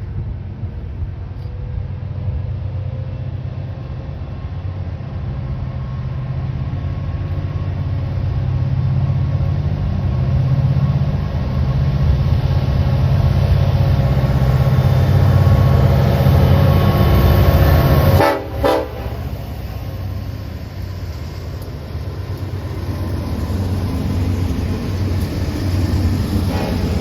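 Diesel-hauled train going by: a steady low locomotive rumble that grows louder to a peak about two thirds through, drops out for a moment, then carries on a little quieter.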